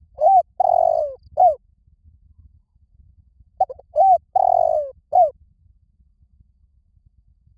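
Spotted dove cooing: two phrases about three and a half seconds apart. Each phrase is a couple of short coos, a longer held coo, then a falling final coo.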